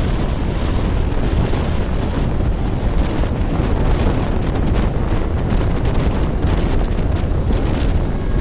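Wind rushing over the microphone of a moving motorcycle, loud and steady, with the bike's engine and road noise underneath.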